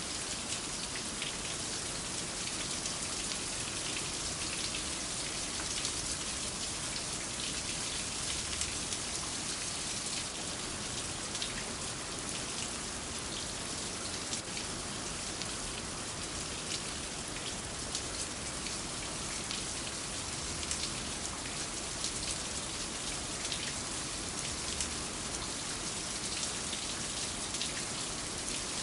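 Steady rain falling, a continuous hiss with a fine patter of drops on hard surfaces.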